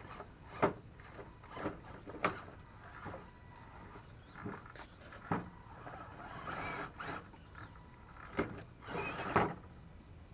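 RC scale crawler truck working over rocks and wood: short whirs of its small electric drive motor and servo, with irregular clacks and knocks of the tires and chassis against the obstacles.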